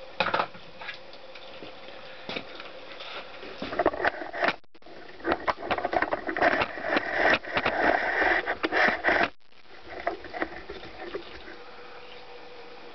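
Handling noise from dismantling a Honda CX500 engine: scattered clicks and knocks of metal parts, with a busier stretch of rubbing and clattering in the middle, cut off twice by brief gaps.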